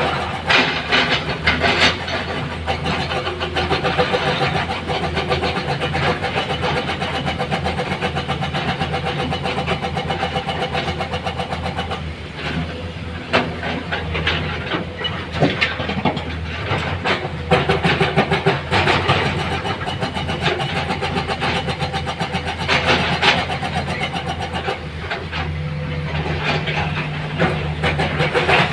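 Heavy diesel engine of an excavator or dump truck running continuously, with frequent knocks and clatter. The engine note changes near the end.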